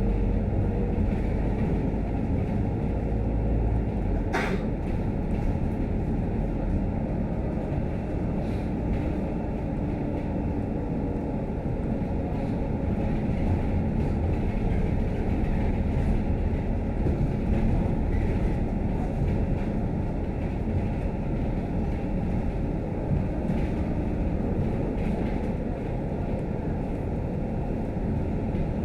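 Steady running noise of a Scania K310UD double-decker bus heard from on board, a low engine and road drone, with one sharp click about four seconds in.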